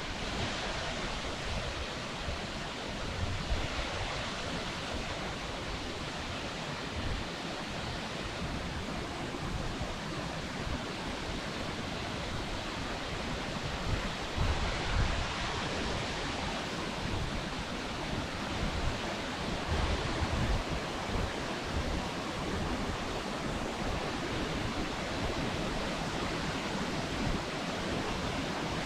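Steady rush of the Steinsdalsfossen waterfall, with wind buffeting the microphone in low bumps now and then.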